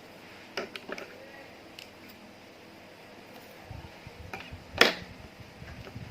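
Slime being mixed by hand: a few short sticky clicks about half a second to a second in, then squishing and handling noise with one loud pop near the end.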